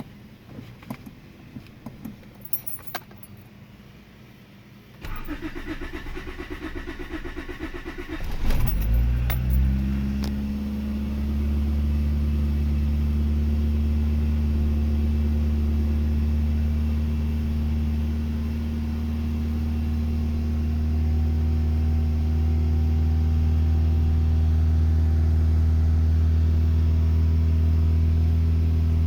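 Keys jingling and clicking, then the 1987 Honda Accord's four-cylinder engine cranking on the starter for about three seconds. It catches about eight seconds in, flares briefly, and settles to a steady fast idle on a cold start. The owner says this fast idle will not kick down, staying around 2500–3000 rpm even when warm.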